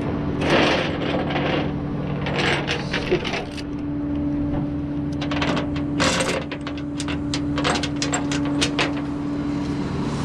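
Metal hardware clinking and jingling in quick runs, busiest in the second half, over the steady hum of an engine running.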